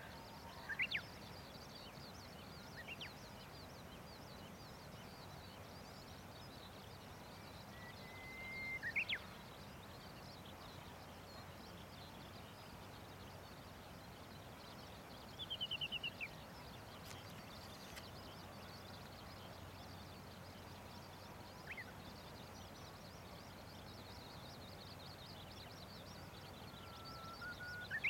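Outdoor ambience with birds singing now and then: about six short whistled songs, several of them a long held note that ends in a quick rising flourish, and one a quick run of falling notes about halfway through. A faint, steady high shimmer runs underneath.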